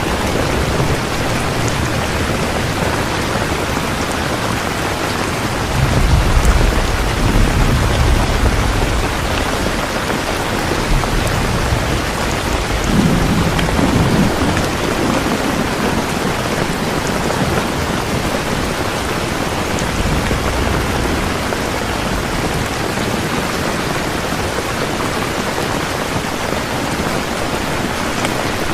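Steady rain falling, with a low rumble of thunder rolling in about six seconds in and another, weaker one a few seconds later.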